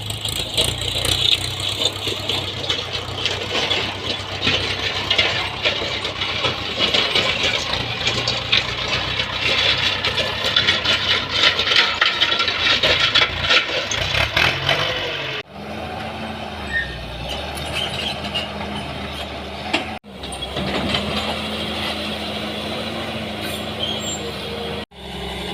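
Excavator at work: for the first half, dense scraping and crackling with many small clicks, then after a sudden cut a steadier engine and hydraulic hum with a low drone. The sound breaks off abruptly twice more.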